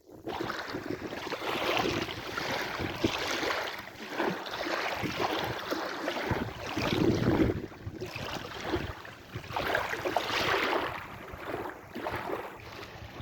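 Sea waves washing and breaking, surging every few seconds, with wind buffeting the microphone.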